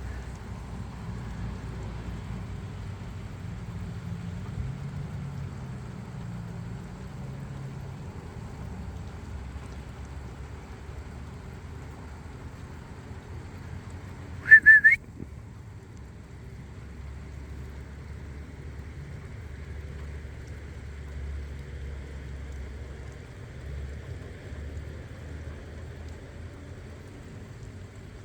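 Steady rain with a low rumble underneath. About halfway through comes one short, loud, wavering whistle, a person whistling.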